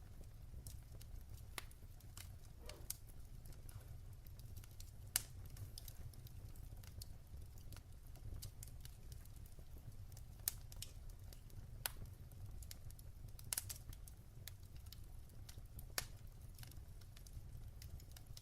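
Wood fire crackling in a fireplace: a low steady rumble of the flames with scattered sharp pops and snaps, a few louder cracks standing out.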